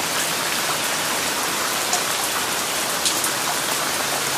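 Steady rain falling, an even hiss with a few brief, sharper ticks of drops.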